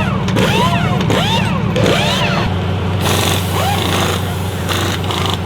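Off-road race truck engines revving up and down in quick sweeps over background music with a steady bass line. The revving is busiest in the first half.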